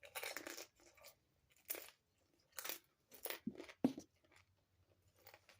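Mouth chewing and crunching a fried crab rangoon, about five crisp crunches spaced a second or so apart.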